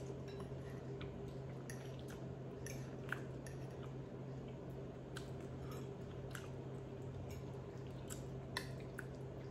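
Close-miked chewing and wet mouth sounds of a person eating, with short scattered clicks of a fork on a plate over a steady low hum.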